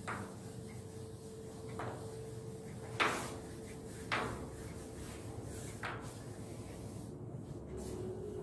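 A blackboard being wiped clean with a duster: five sharp knocks a second or two apart, over a faint steady hum.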